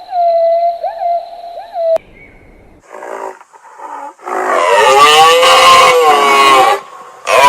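A steady, wavering hoot-like tone, then a couple of short calls, then a long, loud cow moo whose pitch rises and falls, and a second moo starting near the end.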